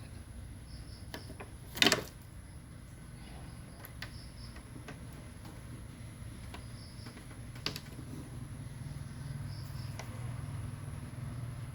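Handling noises while working on an opened TV: one sharp knock about two seconds in and a few light clicks, over a steady low hum.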